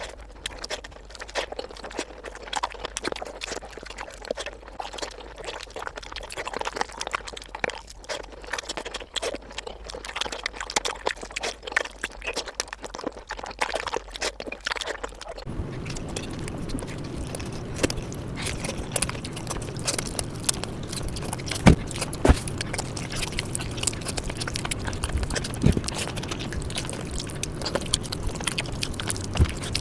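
Close-miked eating sounds: wet chewing, lip smacks and squelches of a curry meal, a dense run of small clicks. About halfway through, a steady low hum comes up under the eating.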